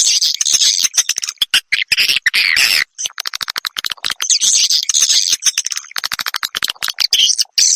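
Edible-nest swiftlet calls from a swiftlet-farming roosting lure ('suara inap'). Rapid trains of dry clicks, about ten a second, alternate with buzzy, chattering twitters.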